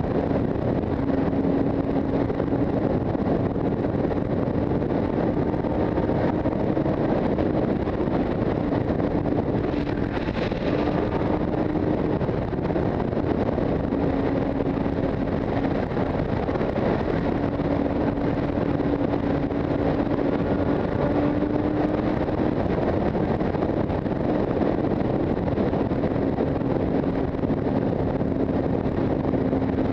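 Motorcycle running at a steady cruise, its engine note holding a nearly constant pitch under heavy wind rush on the microphone.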